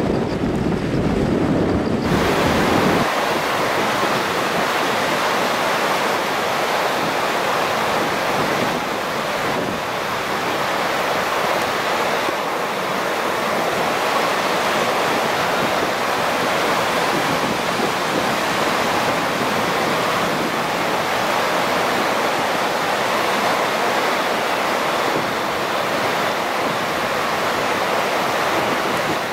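Steady rushing of a swollen river in flood, an even wash of water noise. A train's low rumble on the railway bridge dies away in the first two or three seconds.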